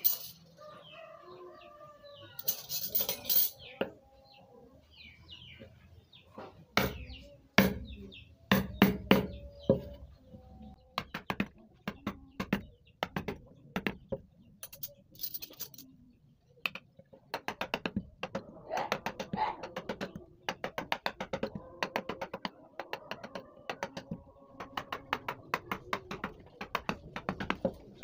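Carving chisel driven into wood by quick, even taps of a mallet through the second half, after a few scattered heavier knocks early on. Birds chirp in the background during the first half.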